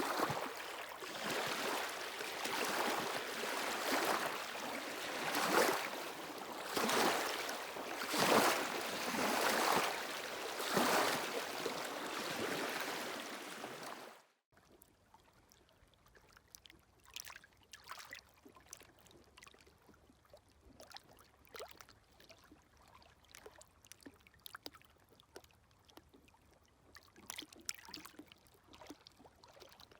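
Sea waves washing over a stony shore in repeated surges. About halfway through it cuts off abruptly to much quieter small waves, lapping and trickling among the stones in faint, scattered splashes.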